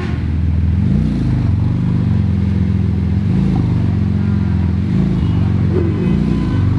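A high-performance car engine idling loudly, with three short light throttle blips that briefly raise its pitch.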